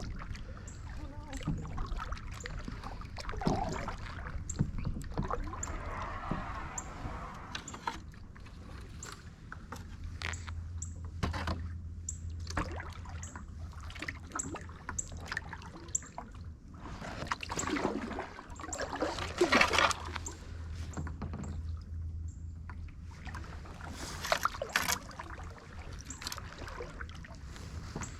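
Kayak paddle strokes dipping and splashing in shallow river water, with scattered small knocks. The splashing is loudest twice, about two-thirds of the way in and again near the end.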